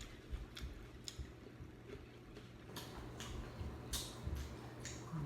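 Close-miked chewing of nachos: about nine sharp, irregular crunches and mouth clicks.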